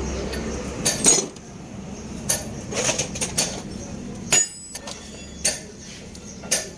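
Metal striking metal in a workshop: irregular clinks and knocks, about eight in all, one ringing on with a clear tone about four and a half seconds in.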